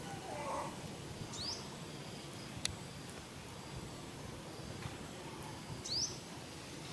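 Two short, sharp high-pitched animal chirps that sweep upward, about four and a half seconds apart, over steady outdoor background noise, with a single click between them.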